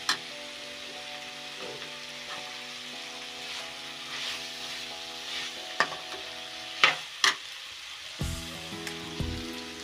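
Chickpea masala sizzling in a metal kadai as a steel spatula stirs it, with a few sharp clinks of the spatula against the pan, three of them between about six and seven seconds in.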